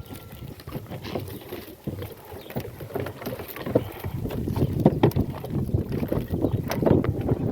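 Goat-drawn cart rolling over rough ground, with irregular knocking and rattling over a low rumble that grows louder about halfway through.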